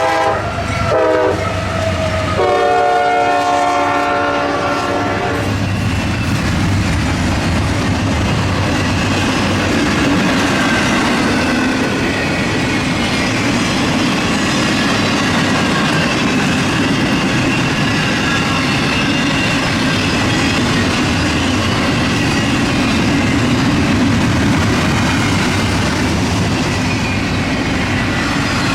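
Fast CSX intermodal freight train: the locomotive's air horn sounds a short blast, then a longer one of about three seconds. The train then passes at speed with a steady rush and clickety-clack of wheels over rail joints.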